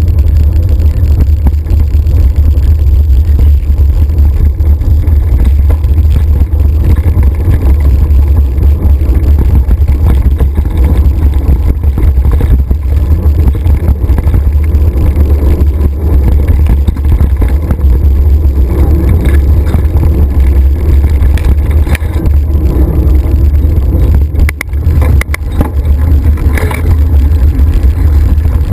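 Loud, steady wind rumble buffeting the microphone of a camera riding along on a moving mountain bike, with a brief lull and a couple of sharp clicks near the end.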